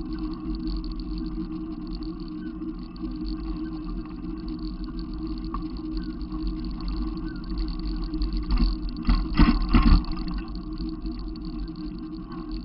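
Steady low engine hum, with a louder, noisier swell about nine to ten seconds in.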